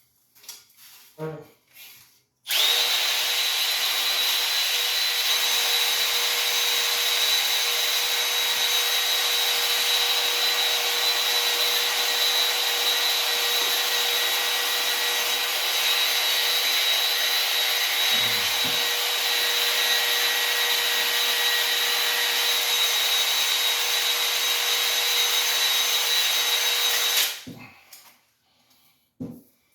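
Electric drill spinning a cylinder hone against the bore wall of a Ford 289 V8 block, running at a steady speed with a steady whine. It starts a few seconds in and stops shortly before the end.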